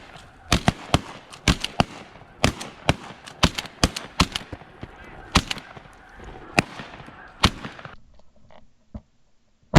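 A volley of shotgun blasts from several hunters firing at a flock of snow geese: about fifteen to twenty sharp, irregular shots, some in quick runs, over roughly seven and a half seconds. The sound cuts off abruptly about eight seconds in.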